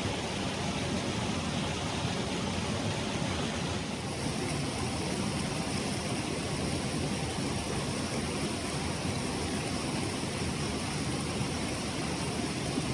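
Water of a mountain stream rushing steadily over rocks, a constant even rush with a slight change in its tone about four seconds in.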